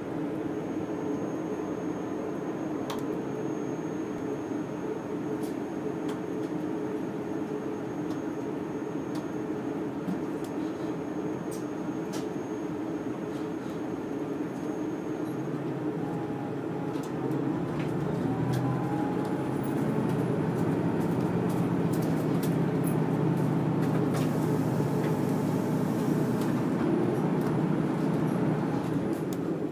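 Steady hum inside a train carriage standing at a platform, which grows louder about two-thirds of the way through as the train pulls away, with a faint rising whine as it picks up speed.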